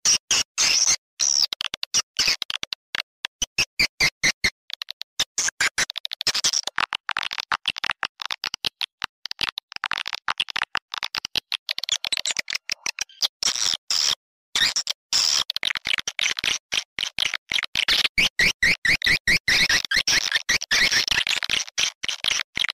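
Swiftlet-house lure call: a recorded edible-nest swiftlet call played back as rapid, choppy, high-pitched chirping and clicking pulses, with runs of quicker chirps about three seconds in and again near the end.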